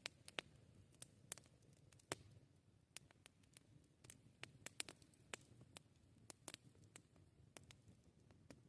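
Wood campfire crackling: irregular sharp snaps and pops, a few much louder than the rest, over a faint low rumble.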